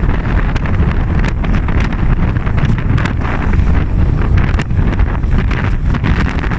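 Wind buffeting the microphone over the steady low rumble of a moving vehicle, with frequent short rattles and knocks at irregular moments.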